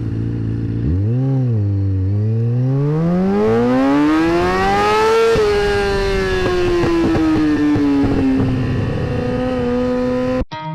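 Sport bike engine: a quick blip of the throttle about a second in, then a long pull with the engine note climbing steadily, after which the throttle closes and the note falls slowly as the bike slows. The sound cuts off abruptly near the end.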